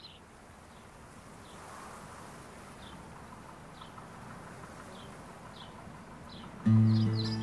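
Rural ambience: a steady hiss with sparse, short bird chirps. Near the end, an acoustic guitar starts playing, suddenly much louder.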